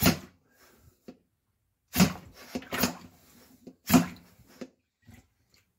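Hand-pumped power plunger firing short, sharp blasts of air into a clogged sink drain, five in all, one at the start and the rest between about two and four seconds in.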